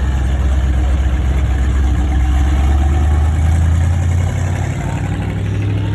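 Classic car engine running with a deep, steady rumble; its revs step up about four seconds in.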